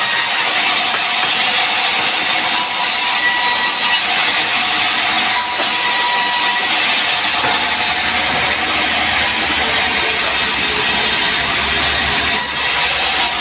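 Sawmill saw cutting through mahogany, a loud, even rushing noise that holds steady throughout.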